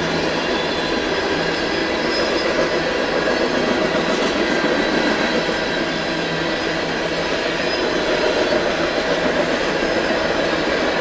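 Freight cars of a long freight train rolling past at steady speed: a continuous rumble of steel wheels on rail, with thin, steady wheel-squeal tones over it.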